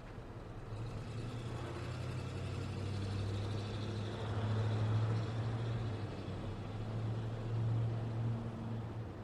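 Road traffic: a motor vehicle's engine and tyres swell in about a second in and are loudest around the middle, with a second swell near the end, over a steady low engine hum.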